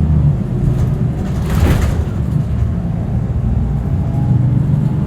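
Vehicle engines running steadily in a low rumble, with a brief hiss about a second and a half in.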